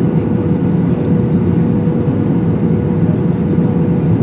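Airbus A321 cabin noise: a steady low rush of engines and airflow with a constant hum just under it.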